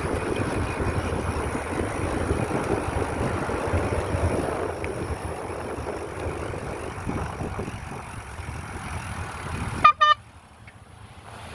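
Wind rushing over the microphone with road noise while riding a bicycle. About ten seconds in there is one short, loud, pitched beep, and the wind noise then drops away sharply.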